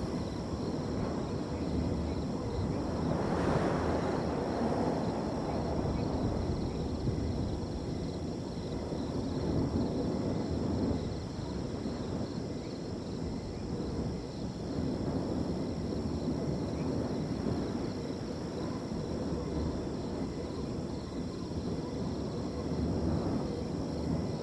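Wind blowing over a field in swelling gusts, one stronger gust about three seconds in, with crickets trilling faintly and steadily in the background.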